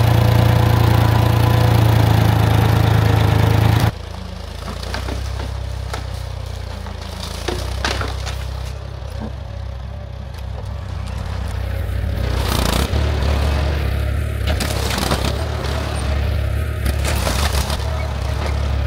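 An engine runs loud and steady, then is cut off abruptly about four seconds in. After that a lower-pitched tractor engine runs, with scattered sharp knocks and cracks of wood, typical of a loader pushing cut logs aside.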